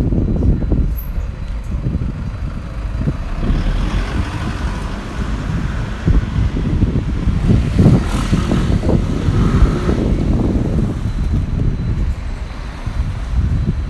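A road vehicle passing, swelling to its loudest about eight seconds in, over wind buffeting the microphone.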